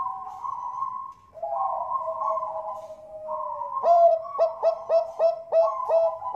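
Perkutut bangkok (zebra doves) cooing: soft overlapping trilled coos, then from about four seconds in a quick run of sharp staccato coo notes, roughly three a second, the contest-style song these birds are kept for.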